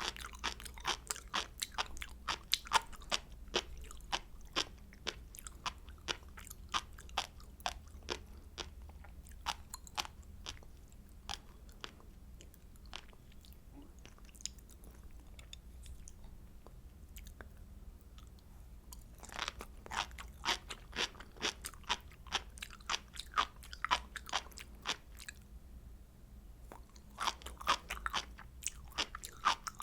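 A person chewing sea grapes close to the microphone. The tiny seaweed beads pop in quick runs of crisp clicks, thinning out in the middle and with a brief pause a few seconds before the end.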